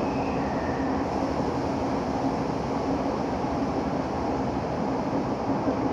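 Electric commuter train running through the Minato Mirai Line's subway tunnel, heard from inside the car: a steady rumble of wheels on rail and traction motors with a low hum. A faint, brief high whine comes in about a second in.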